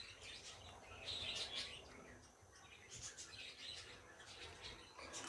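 Faint birds chirping, a few short high calls at a time.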